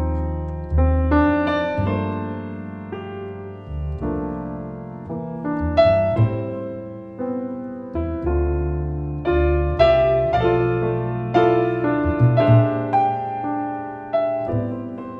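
Piano and double bass duo playing a slow, gentle piece: piano chords and melody notes over deep sustained bass notes.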